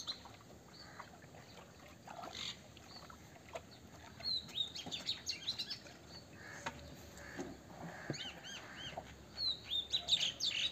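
Small birds chirping and twittering in quick bursts of high, sweeping notes, several times, loudest near the end.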